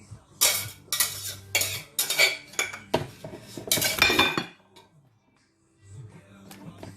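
Metal serving utensils clinking and scraping against a pot and a plate as vegetables are dished up, a run of sharp strokes that stops about four and a half seconds in, with a few faint clinks near the end.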